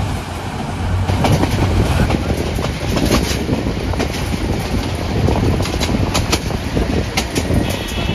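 Passenger train coaches running along the track: a steady low rumble, with wheels clicking irregularly over the rail joints from about a second in.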